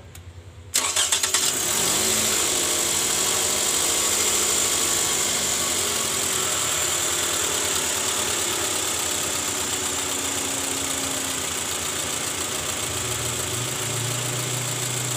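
Toyota 2AZ-FE 2.4-litre four-cylinder engine cranked and catching about a second in, then idling steadily, its revs easing down a little, with a lower hum joining near the end. With the worn balancer shaft replaced, it runs smooth and normal, without the rough noise that was the complaint.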